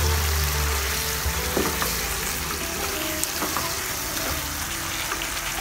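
Squid and petai sizzling as they fry in a pan of spicy sauce: a steady hiss with a few light clicks.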